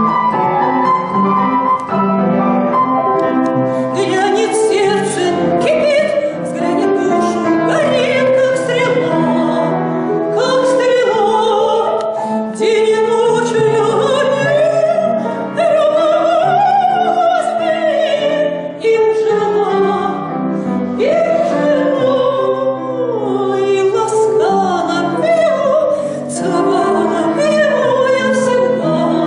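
A woman singing a Russian romance in a trained classical voice with vibrato, accompanied by piano.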